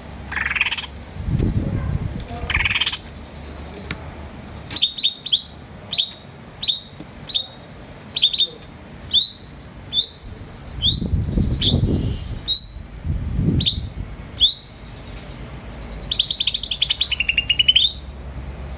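Green starling calling: a run of short, sharp chirps repeated a little more than once a second, ending in a quick rattling trill near the end.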